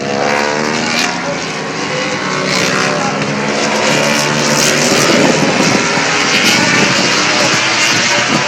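MotoGP racing motorcycle engines at high revs, their pitch sliding up and down with gear changes and passing bikes, over a steady haze of track noise.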